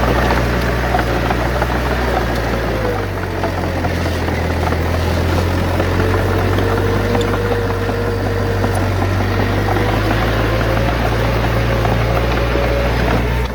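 Heavy earthmoving machinery's diesel engine running steadily, with a low drone and a faint whine above it; the engine note shifts about three seconds in.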